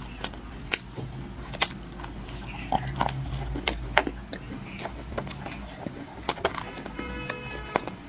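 Dry clay crunching in sharp, irregular cracks, about ten over the stretch, some in quick pairs.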